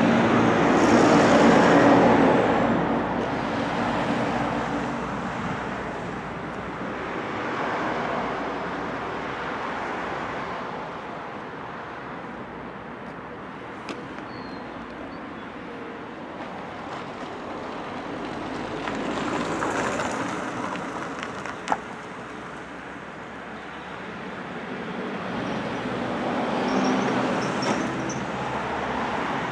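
Road traffic: several vehicles pass one after another, each swelling and fading away, the loudest about two seconds in. A short sharp knock about two-thirds of the way through.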